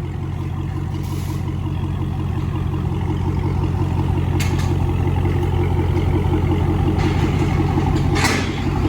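Acura TL's V6 idling through a straight-piped, catless exhaust with no muffler: a steady, deep drone that grows a little louder over the first few seconds. There is a faint click around the middle and a short hiss near the end.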